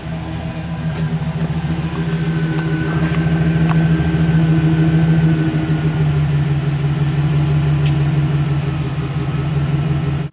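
2009 GMC Sierra's 5.3-litre V8 running steadily through its stock (factory) exhaust, getting slightly louder about two to three seconds in, then cutting off abruptly at the end.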